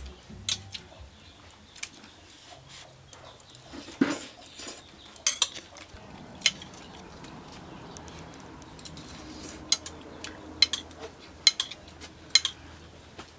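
Cutlery clinking against dishes in about a dozen sharp, separate clinks at irregular moments.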